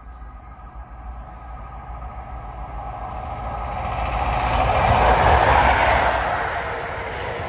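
Class 43 HST power car at the head of the New Measurement Train approaching and passing close at speed: a rising rush of engine and wheel noise that is loudest about five seconds in as the power car goes by.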